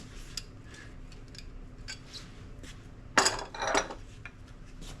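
Light metallic clicks and clinks of hand tools and parts being handled, with two louder metal clatters a little after three seconds in.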